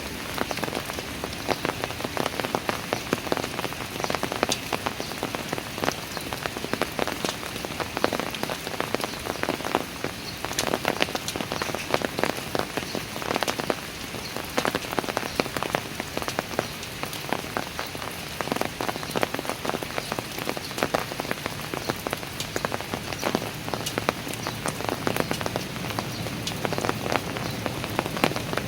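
Steady rain falling on park stairs, a constant wash with many close, distinct drop impacts spattering throughout.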